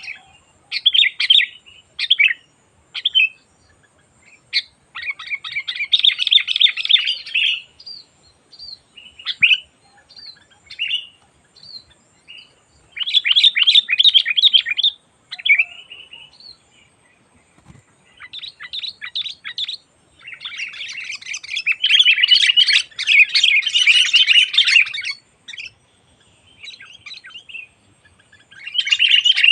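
Sooty-headed bulbul (kutilang) chattering and singing in fast, rapid-fire bursts, some lasting several seconds, with short single calls in between. The longest, loudest burst comes about two-thirds of the way through.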